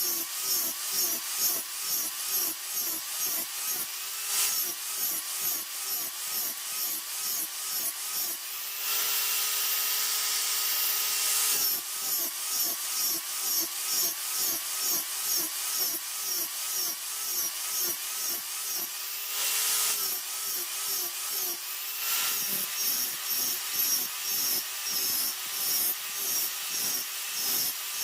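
An electric power tool working the knife steel in rapid repeated strokes, about two to three a second: the motor's pitch sags with each stroke. It runs steadily unloaded for a few seconds about nine seconds in and again briefly near twenty seconds.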